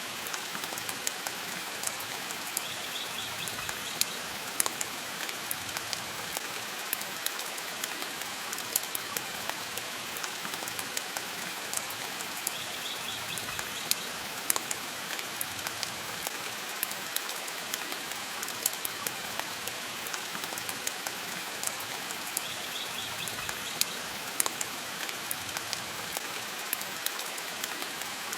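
Steady rain, with the irregular crackle and sharp pops of a wood fire burning in a fireplace.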